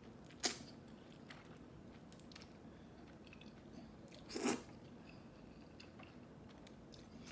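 Close-miked eating sounds: quiet chewing with a sharp bite about half a second in and a louder, short crunch or slurp about four and a half seconds in.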